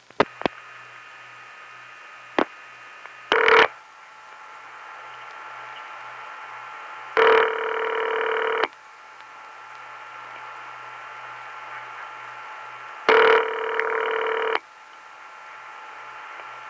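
Bell Canada ring heard by the caller on a long-distance line into Montreal: a few switching clicks, a brief partial ring, then two full rings of about a second and a half each, roughly six seconds apart. Steady line hiss and a low hum run between the rings.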